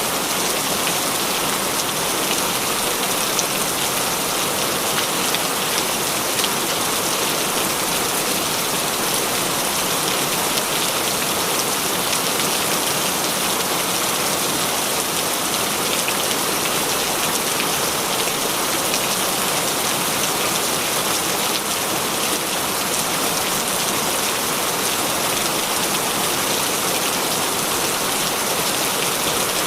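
Heavy rain falling steadily, a dense even hiss of drops hitting surfaces with no thunder or breaks.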